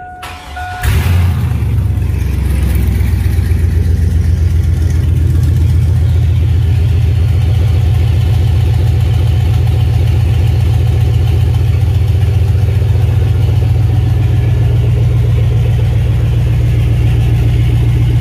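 A Chevrolet 5.3-litre V8 starting and settling into a steady, loud idle with its catalytic converters removed. A two-tone warning chime sounds briefly at the start and stops as the engine fires, under a second in.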